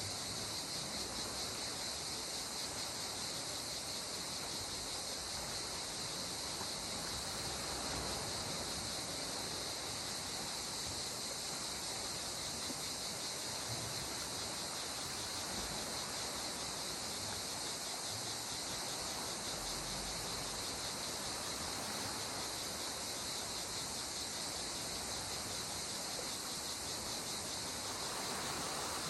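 A steady, high insect chorus, like crickets, going without a break over the soft, even wash of small waves that swells gently now and then.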